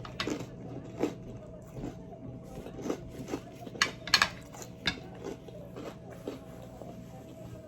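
Close-miked eating: chewing with cutlery clicking against a plate, about ten sharp irregular clicks, the loudest a little past halfway.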